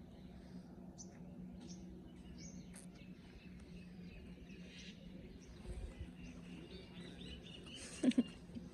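Scattered faint bird chirps over a steady low hum, with a brief louder sound near the end.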